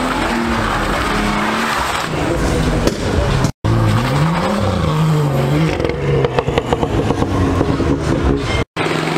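BMW engine revving up and down as the car spins its rear tyres in a burnout, with tyre squeal over the engine. The sound drops out abruptly twice, for an instant each time.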